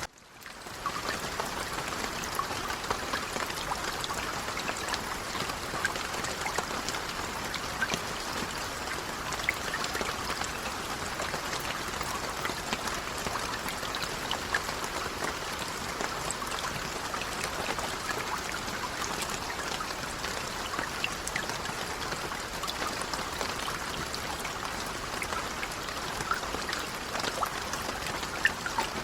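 Light rain falling, a steady patter of many small drops. The sound cuts out briefly at the very start and fades back in within about a second.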